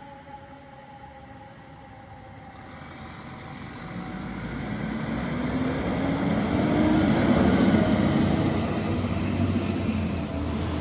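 Emergency siren tones fading into the distance over the first few seconds, then a road vehicle driving past close by, its engine and tyre noise swelling to a peak about seven seconds in.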